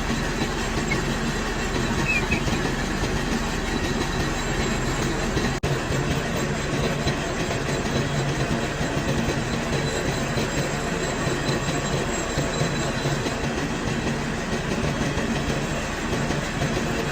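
Metal lathe running while machining a pulley: steady machine noise with a low hum.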